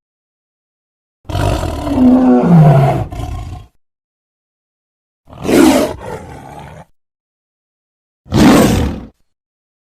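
Lion roaring three times: a long roar about a second in that falls in pitch, a shorter one near the middle, and a brief one near the end, with dead silence between them.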